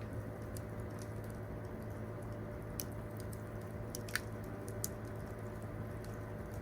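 Wood campfire crackling: scattered sharp pops and snaps over a steady low rumble, with the loudest pop about four seconds in.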